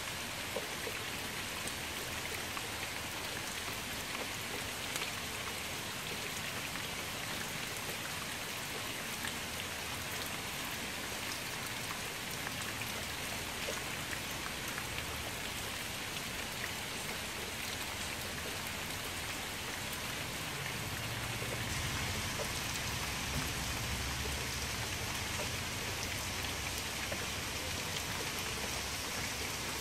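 Steady rain falling into a shallow puddle among grass, many small drops hitting the water at once. A low rumble joins about two-thirds of the way in.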